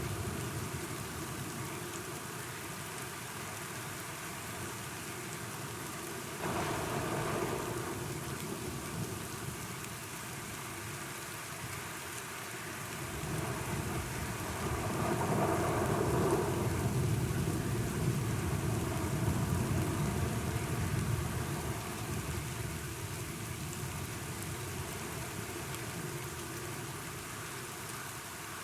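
Steady rain falling, with thunder: a sudden rise about six seconds in and a longer, louder rolling swell in the middle.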